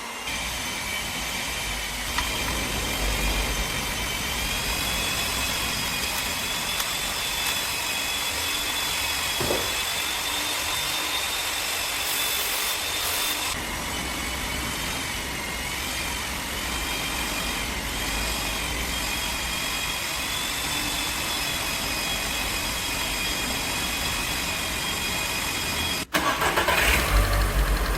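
VW Lupo GTI's four-cylinder petrol engine idling steadily, with a high whine that wavers a little. Near the end there is a sudden break, and then it runs louder.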